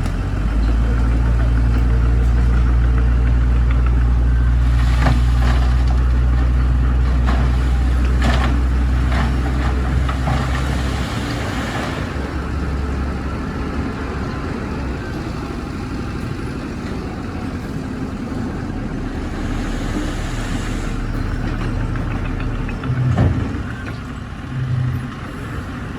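Heavy construction machine's diesel engine running. It is loud and steady for about the first eleven seconds, then lower, with scattered knocks and clanks early on and a short thump near the end.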